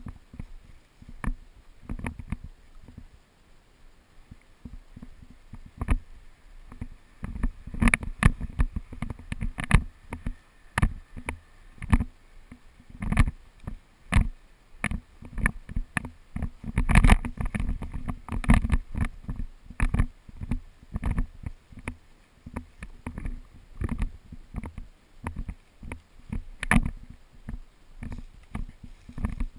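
Irregular thumps and rustles close to the microphone, from a player moving on foot with gear during an airsoft game; there is no steady rhythm of shots.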